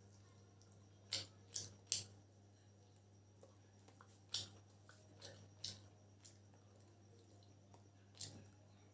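Someone chewing spicy chicken chowmein close to the microphone: about seven short wet smacks and crunches, spaced irregularly, over a faint steady hum.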